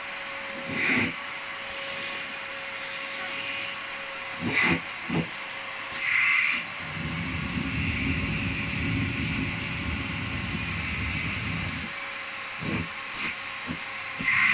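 Vacuum cleaner running steadily, a hiss of suction over a faint motor hum, with a few short surges and a stretch of low rumbling in the middle as the nozzle is worked over a cat's fur.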